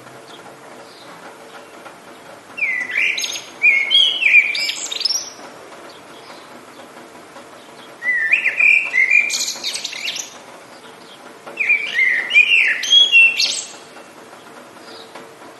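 A songbird singing three loud phrases of quick, gliding, warbling notes, each about two to three seconds long, with fainter bird chirps and a steady faint hiss between them.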